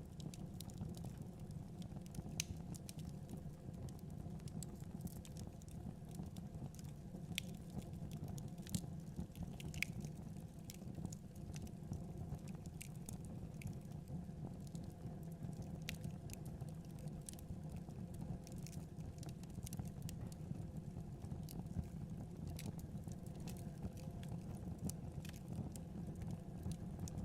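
Fireplace fire burning with a steady low rumble and frequent irregular crackles and pops.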